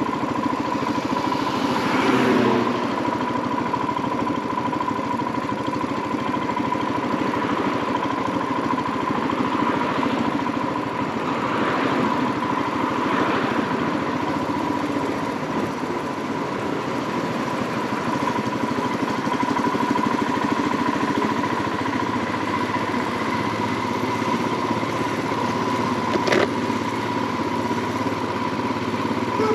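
Royal Enfield Himalayan 411's single-cylinder engine running steadily while riding, with a few brief swells in the noise and a single sharp click near the end.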